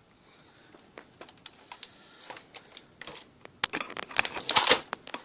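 Handling noise from a tablet being picked up and moved: scattered clicks and taps, then a louder stretch of rustling and scraping from about three and a half seconds in.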